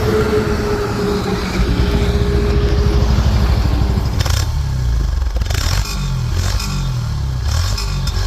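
Yamaha FZS V3 motorcycle's 149 cc single-cylinder engine running, heard through its exhaust.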